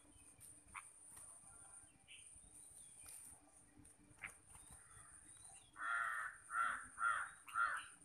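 A bird gives four harsh, raspy calls in quick succession near the end, each about half a second long, over a faint steady high hiss.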